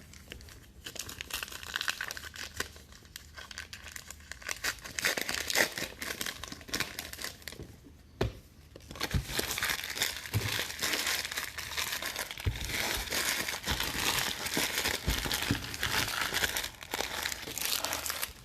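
Plastic-foil trading card pack wrappers being torn open and crinkled by hand, in two long stretches of irregular crackling with a short pause about eight seconds in.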